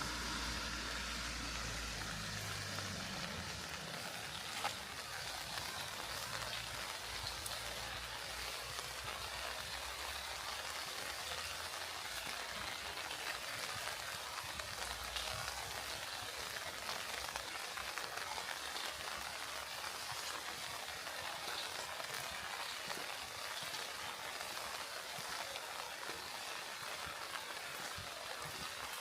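Steady rain falling on surfaces, a fine even hiss dotted with the ticks of single drops. A motor vehicle's engine hum fades out in the first few seconds.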